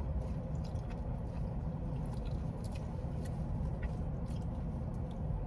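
Close-up chewing of crunchy fried chicken, with small crackles and clicks, over a steady low rumble from the car's idling engine.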